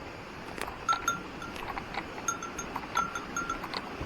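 A small bell jingling over and over in short rings, over the steady rush of stream water, with a few sharp clicks.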